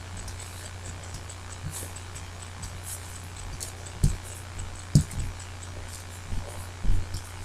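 A few soft knocks and taps, the clearest about four and five seconds in, as an alcohol ink applicator is dabbed onto a paper die cut on a tabletop, over a steady low hum.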